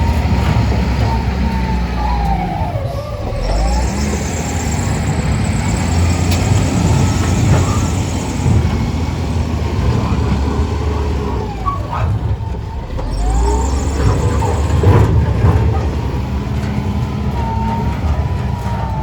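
A heavy engine running, with a thin wavering whine that dips and rises over the rumble.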